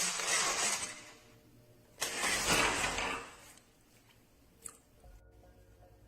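Remote-control monster truck driving in two short bursts, each about a second and a half long, its electric motor and tyres making a rushing noise.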